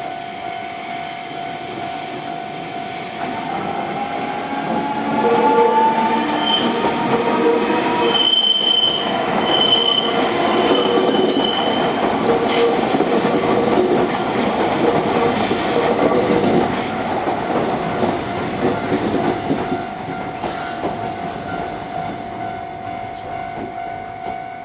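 A Nankai electric train passes over a level crossing, its running noise building from about three seconds in, loudest from about six to sixteen seconds, then fading. A motor whine rises in pitch early on, and the wheels squeal for several seconds. Under it all, the crossing's warning bell sounds as a steady tone.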